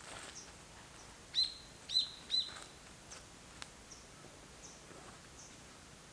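A bird calling: three loud, sharp notes in quick succession about a second and a half in, followed by fainter, higher chirps, over a quiet outdoor background with a few faint ticks.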